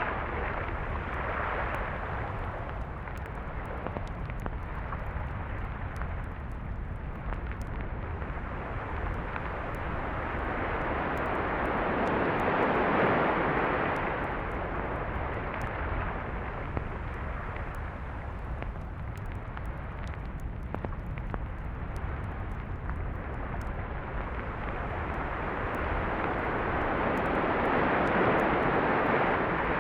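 Sea waves breaking and washing up a beach: a steady rush of surf over a low rumble, swelling twice to louder breakers, the first about halfway through and the second near the end.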